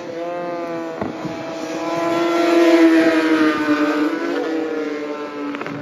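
Racing superbike engine going past at speed, its note swelling to a peak about halfway through and then dropping a little in pitch as it moves away.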